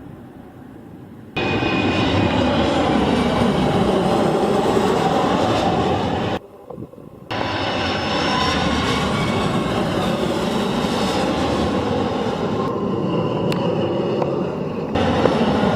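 Jet airliner's engines and airflow making a loud, steady rushing noise during landing. It breaks off and comes back abruptly several times.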